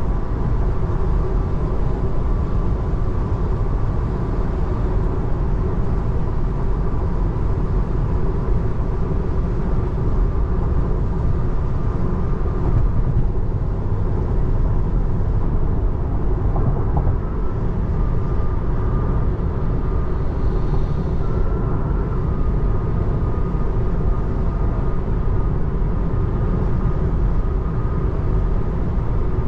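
Steady road noise heard inside a 2024 Tesla Model 3's cabin: tyres running on a rain-soaked highway with spray from the traffic around, over a deep even rumble and a faint steady tone. The car is electric, so there is no engine sound.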